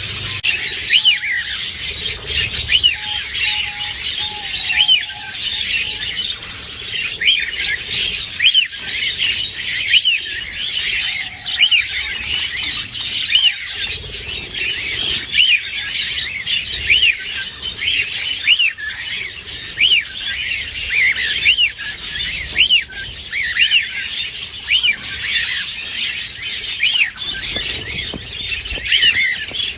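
Caged budgerigars chirping and squawking without pause, a steady stream of short calls that rise and fall in pitch, one or two a second.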